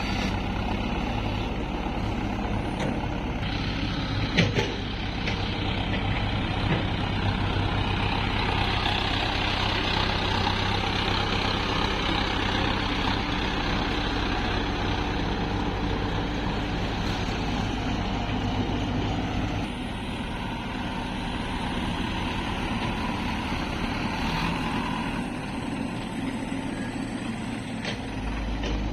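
Heavy diesel machinery running steadily: the engine of a Hyundai Robex 110 excavator at work loading mud into a tractor trolley. A couple of sharp knocks come about four seconds in, and the low engine sound drops about two-thirds of the way through.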